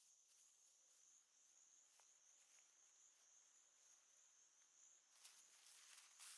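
Faint, steady, high-pitched drone of insects, with a brief rustle near the end.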